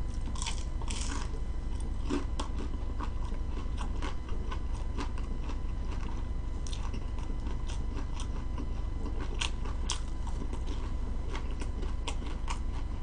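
Close-up mouth sounds of a person chewing and biting fried food: many small, sharp clicks and crackles, irregularly spaced, over a steady low hum.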